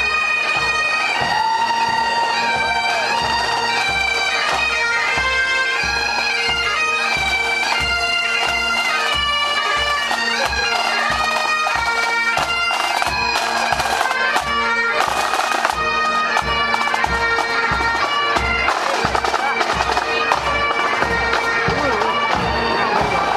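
Bagpipes playing a melody over their steady drones, with a regular low drumbeat underneath.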